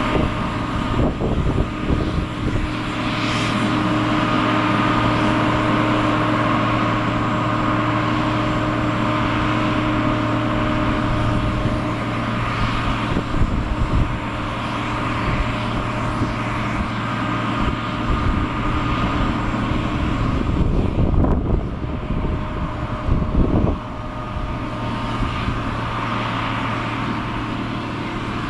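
Boeing 767-300ER's turbofan jet engines running with a steady whine over a broad rush of noise, with irregular low rumbles now and then.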